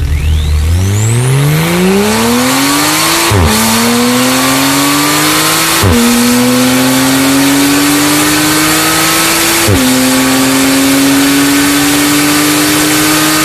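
Porsche 911 Carrera (991.2) twin-turbo flat-six through an Akrapovič exhaust, accelerating hard from low revs. The note climbs and is cut by three upshifts, each a sudden drop in pitch, about three, six and ten seconds in. The pitch rises more slowly in each higher gear.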